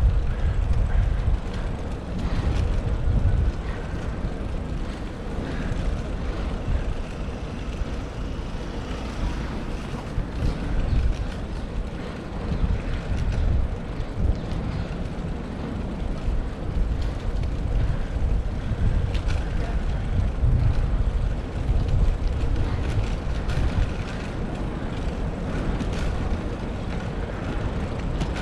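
Steady, gusting wind rumble on a bicycle-mounted GoPro's microphone while riding, over the noise of road traffic.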